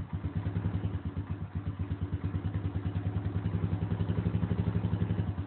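Honda 350ES ATV's single-cylinder engine idling with an even, rapid pulsing beat, just after a cold start without a working choke.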